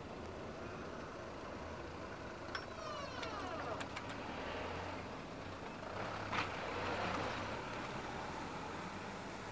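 Low rumble of a Meitetsu electric train running away across a steel truss railway bridge, with a few light clicks around three to four seconds in and a single clank about six and a half seconds in.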